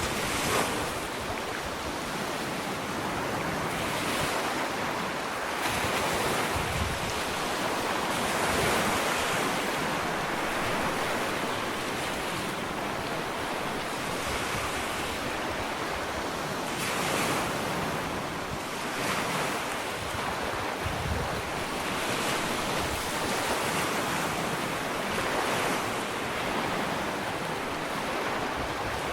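Ocean waves breaking and washing up a sandy beach, a steady surf hiss that swells every few seconds as each wave comes in, with some wind on the microphone.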